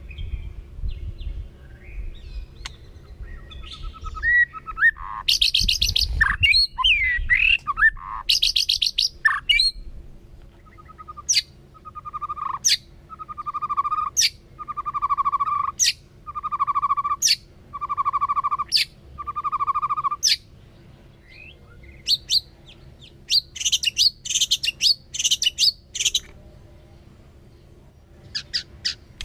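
White-rumped shama singing: varied whistled notes and fast, high buzzy trills, then a run of about seven repeated lower notes, each opening with a sharp click, about one every second and a half. More rapid high trills come near the end.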